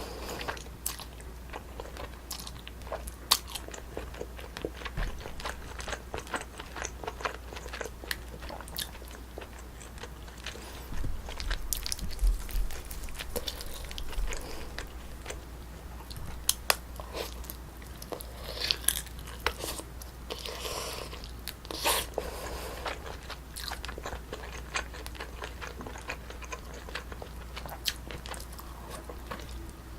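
Close-miked chewing and biting of braised spicy chicken with potato and rice: many irregular small clicks, with a few louder stretches partway through.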